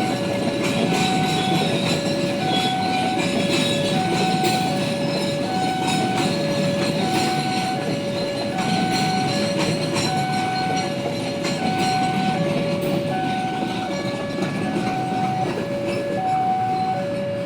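A train rolling past with clicking wheels. Over it sounds a two-tone electronic warning alarm, alternating a higher and a lower tone a little more than once a second.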